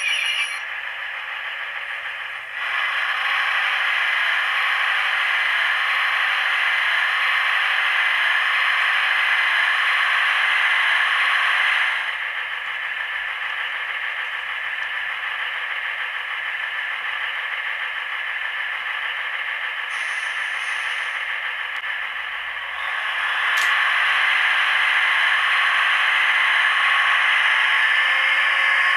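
Hornby Class 156 DMU model's DCC sound decoder playing its diesel engine sound through the model's small speaker, thin and without bass. The engine sound steps up in level about two and a half seconds in, drops back about twelve seconds in, and rises again a little after twenty-two seconds.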